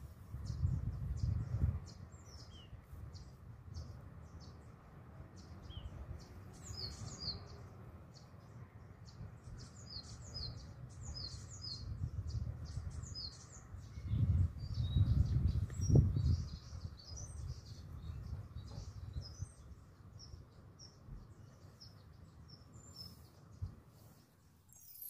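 Birds chirping and twittering in many short, high calls, over faint steady background noise. There is a low rumble about a second in and a louder one around the middle.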